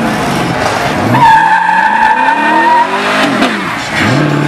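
Chevrolet Camaro doing a burnout: the engine revs up, eases off and revs again, with a steady tyre squeal for about a second and a half in the middle.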